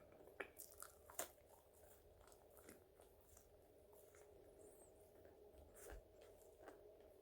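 Close-up eating sounds of French fries: a person biting and chewing, with scattered soft crunches, the sharpest just over a second in. A faint steady hum runs underneath.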